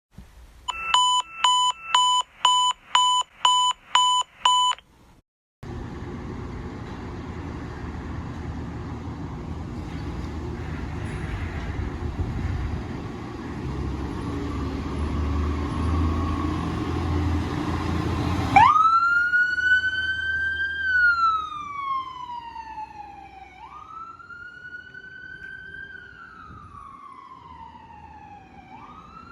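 Eight sharp electronic beeps, about two a second. Then the fire engine's motor runs and grows louder as it moves off. About two-thirds of the way through, its siren starts up and wails: the pitch climbs quickly, then slides slowly down, twice, and starts climbing again at the end.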